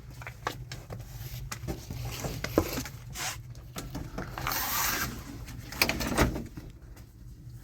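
A run of irregular knocks and clatters, with a longer noisy rustle or scrape about halfway through and another about six seconds in.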